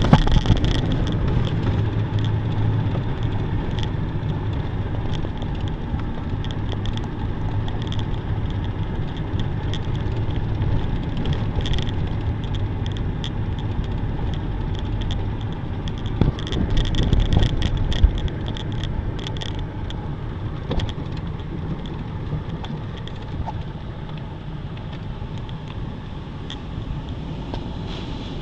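A car's engine runs with a steady low hum under a constant rush of falling water from a roadside waterfall. Scattered spatters hit the car, heaviest from about 16 to 19 seconds in.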